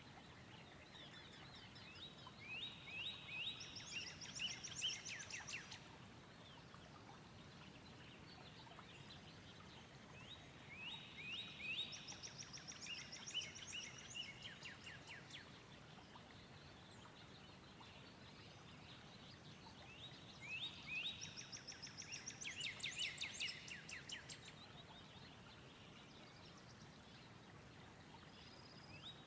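A songbird sings the same phrase of quick notes and trills three times, about every nine seconds, and starts again at the very end, over a steady faint hiss of background noise.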